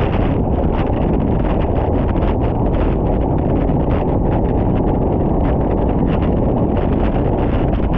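Wind buffeting the camera microphone while cycling fast downhill: a loud, steady rumble with constant crackling over it.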